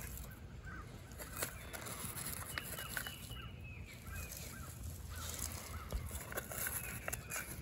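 Birds calling: short calls repeated again and again, with a few light clicks among them.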